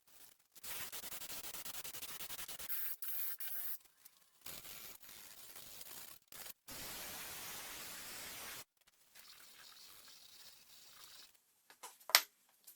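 Hissing, crackling noise in bursts of one to two seconds that start and stop abruptly, then a fainter stretch and a sharp click near the end.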